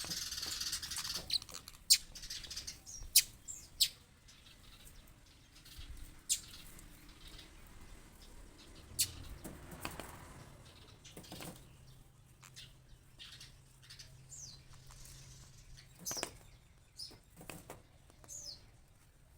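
Small bird fluttering its wings and striking at its reflection in a mirror: sharp taps scattered through, with a few short, high, falling chirps in the second half.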